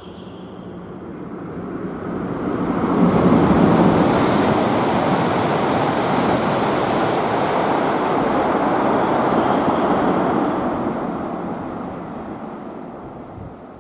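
A Tohoku Shinkansen train passing through the station at high speed without stopping: a loud rushing noise of air and wheels that builds over the first few seconds, holds steady, and dies away near the end, with a thin high whine over it.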